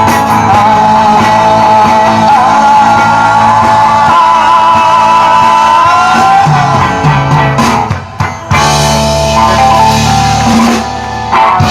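Live rock band with electric guitars, drums and a held sung note, playing out the end of a song. A sustained final chord rings, then drops away about a second before the end.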